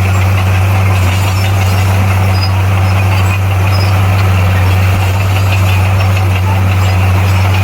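Bulldozer's diesel engine running steadily at a constant speed, a deep even hum with no change in pitch.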